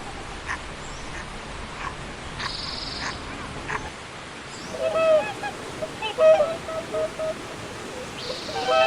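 Waterfowl calling: a run of short, nasal, honking calls that starts about five seconds in and repeats several times, over a steady background hiss.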